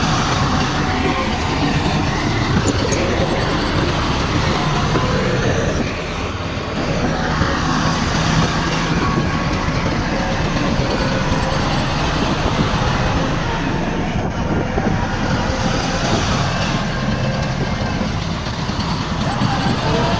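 Heavy diesel earthmoving machinery running steadily, a low engine drone with continuous rattling and clatter, easing briefly about six seconds in.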